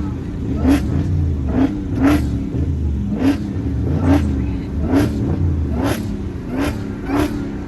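V8 car engine revved hard and held high, with sharp cracks about once every second over a steady low drone.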